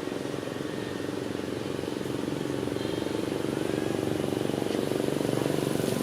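A motor engine running steadily with a fast, even pulse, growing slightly louder.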